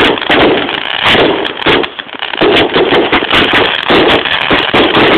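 Fireworks going off at close range: a dense run of crackles and pops over a continuous hiss, dipping briefly about two seconds in.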